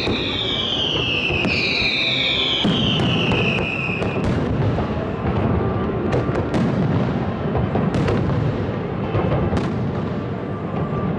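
Fireworks display: three overlapping whistling shells, each falling in pitch, in the first few seconds. They give way to dense crackling and a steady run of sharp bangs.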